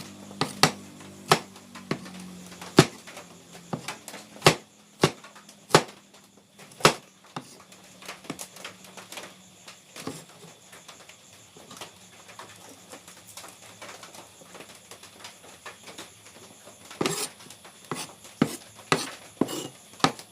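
Sharp, irregular knocks and clacks of kitchen utensils on a cutting board or counter during food preparation. They come often in the first several seconds, thin out through the middle, and pick up again near the end.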